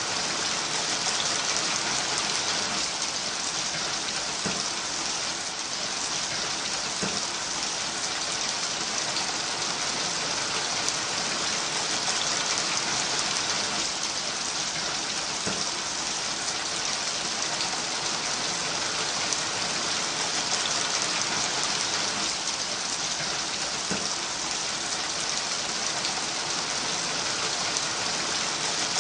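Steady heavy rain falling on a roof, with water streaming off the eave: an even, unbroken hiss with a few faint drip taps.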